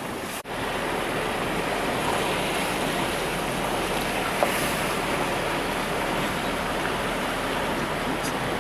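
Steady rushing wash of floodwater as a car drives through deep water on a flooded road.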